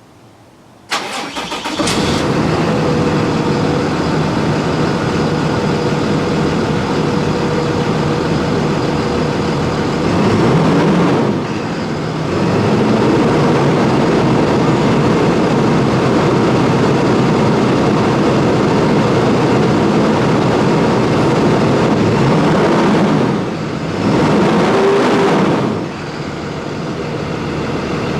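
Cummins ISB 6.7 inline-six turbo-diesel of a 2015 Thomas Saf-T-Liner C2 school bus cranking and starting about a second in, then running steadily at idle, with a few brief dips in level.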